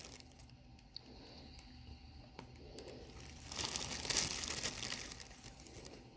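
Crinkling and rustling of something being handled, a few faint clicks, then a louder stretch of crinkling a little past halfway.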